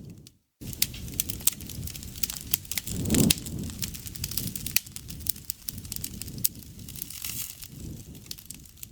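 Campfire burning, wood crackling with many sharp pops over a low rumble of flames. It drops out for a moment just after the start, and there is a louder surge about three seconds in.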